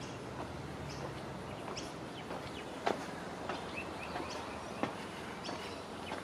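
Birds chirping on and off over a steady low outdoor background, with a couple of brief knocks about three and five seconds in.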